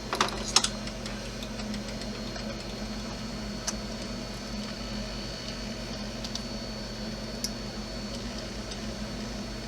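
Steady low electrical hum with a faint high-pitched whine from the powered-up RC snowcat's servo and electronics holding the plow servo centred, with a few light clicks of small parts being handled near the start and twice later.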